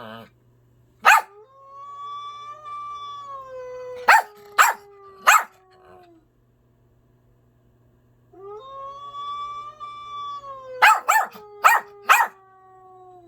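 A pet animal howling: two long, wavering howls, each held about four seconds and sliding down in pitch at the end. Several short, sharp yelps cut in, three during the first howl and a quick cluster of four near the end of the second.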